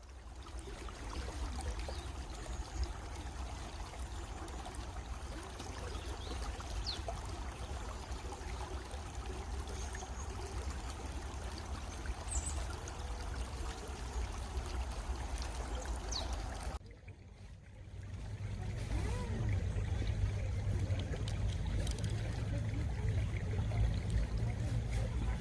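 A stream flowing and trickling, with a few faint, short, high bird chirps. About two-thirds of the way through, the water briefly drops away, then comes back louder and fuller.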